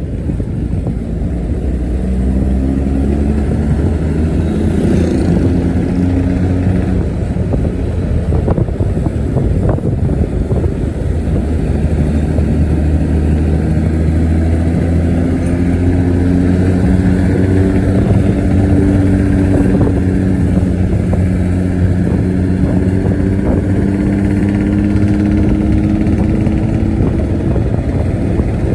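Economy bus's diesel engine and exhaust running under load with a low, snoring exhaust note, its pitch climbing slowly in several stretches as it pulls through the gears.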